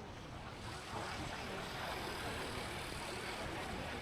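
Steady traffic noise and wind rush heard while riding a motorbike through city streets, getting a little louder about a second in.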